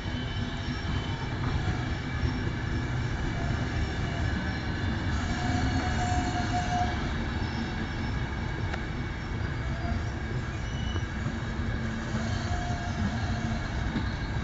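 Passenger coaches of a long train rolling past on the rails, a steady rumble of wheels on track, with faint short wheel squeals a few times.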